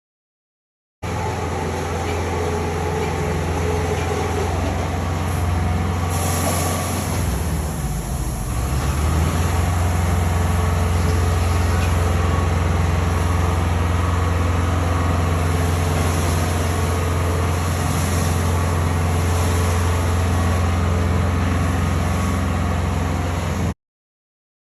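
Steady, loud machine or engine noise with a strong deep hum, starting abruptly and cutting off suddenly.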